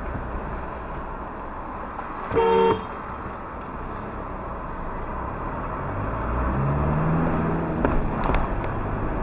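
A car horn sounds one short toot about two and a half seconds in, over steady road and engine noise heard from inside a moving car. Later an engine note climbs as a vehicle accelerates.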